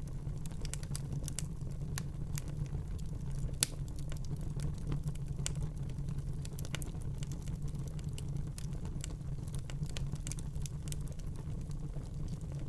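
Fire in a fireplace crackling, with irregular sharp pops and snaps over a steady low rumble of the flames; one louder pop about three and a half seconds in.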